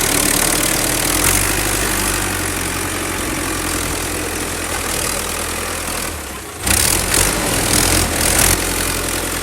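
Small engine of a mini model tractor running steadily with a rhythmic hum; it drops away briefly about six and a half seconds in, then comes back louder.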